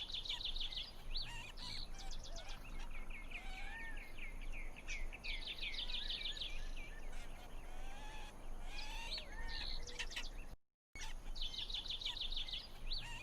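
Several birds singing and chirping over a faint steady hiss: groups of rapid high trills come and go, mixed with lower whistled notes that slide up and down. The sound cuts out completely for a moment about two-thirds of the way through, then resumes.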